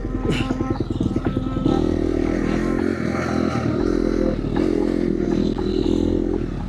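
KTM dirt bike engine running under throttle on a trail, the revs rising and dropping in bursts about every second, with the bike's chassis clattering over rough ground.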